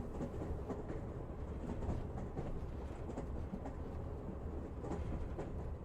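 Steady low rumble with faint, irregular clicks, with no music or singing.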